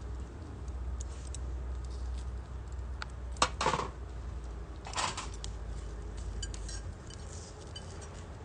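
Metal camp cookware and utensils being handled: light clinks and rattles, with two louder clusters about three and a half and five seconds in.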